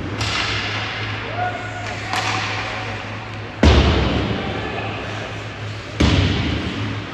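Ice hockey play echoing in an arena: four sharp knocks of puck and sticks against the boards, the loudest about halfway through, over a steady low hum.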